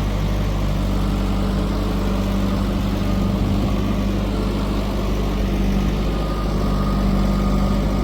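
Heavy diesel engine running steadily at a low, even pace, like a backhoe loader or tractor idling or working lightly.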